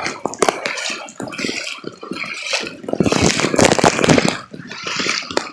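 Floodwater splashing and sloshing in irregular bursts, loudest from about three to four seconds in.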